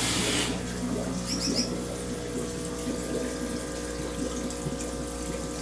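Water running steadily over a low, even hum. About a second and a half in, a finch gives three quick high chirps.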